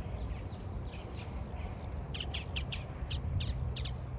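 Birds calling: a few faint short calls, then, about halfway through, a quick run of about eight short, sharp calls, several a second.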